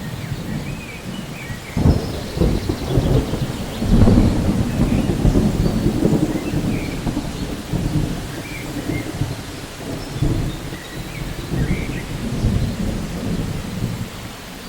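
Thunderstorm: thunder rumbling over steady rain. A sudden crack comes nearly two seconds in, and the loudest peal starts about four seconds in and rolls on in uneven swells.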